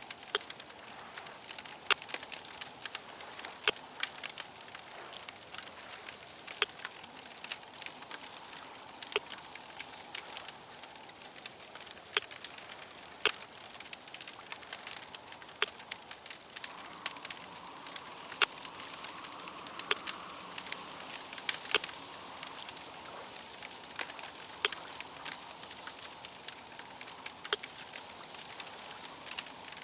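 Fire crackling steadily, with frequent sharp pops and snaps over a soft hiss. A faint low rumble swells slightly for a few seconds past the middle.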